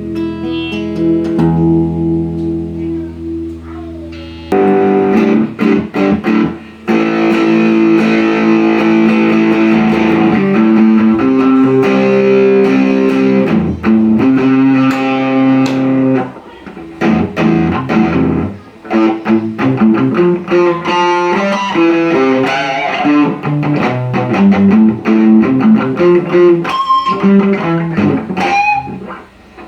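Electric guitar played through a repaired Marshall MG30DFX solid-state combo amp that is working again. A chord rings and fades, then about four and a half seconds in the playing starts louder, with single notes and chords and a few bent notes near the end.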